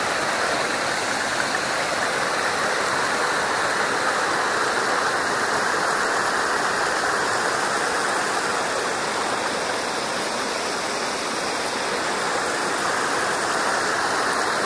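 Rain-swollen brook rushing steadily over a small cascade at a dam, which the hiker takes to be beaver-built.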